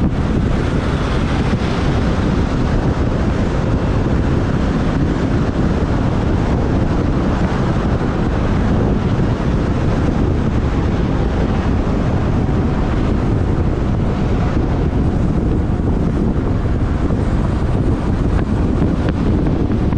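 Wind rushing over the microphone of a camera on a moving motorbike, a loud steady rush with the bike's engine and road noise underneath.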